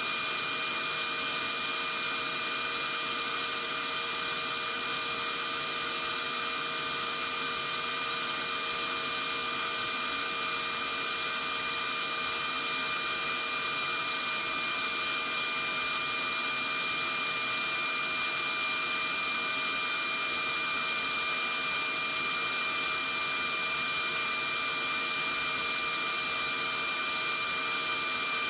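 Vacuum cleaner running steadily, without change: an even rushing hiss with several steady high whining tones from the motor.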